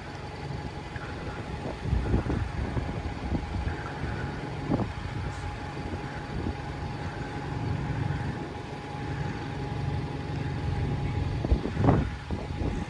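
Road traffic driving past: cars and buses. Louder passes come about two seconds in and again near the end, over a steady low rumble and a faint steady high whine.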